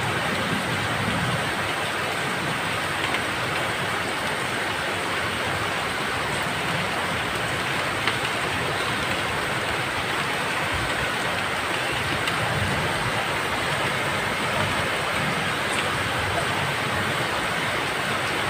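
Steady rain, a dense even hiss, with a low rumble coming and going a few times underneath.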